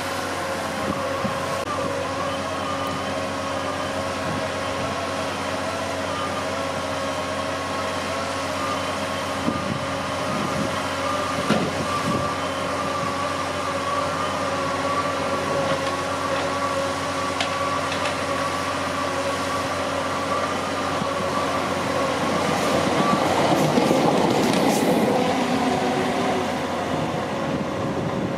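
South Western Railway trains on the lines below: a steady hum with a few slightly wavering tones for most of the time, then the louder rumble of an electric multiple unit passing close, rising to a peak about three-quarters of the way through.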